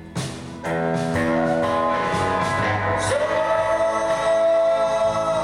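Live band playing a slow rock song with a male lead vocal. The full band swells in under a second in, and the singer sings "so" and holds it as one long note from about three seconds in.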